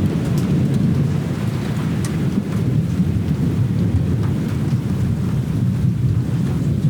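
Rainstorm: steady rain falling with a deep continuous rumble under it and scattered sharp drop ticks.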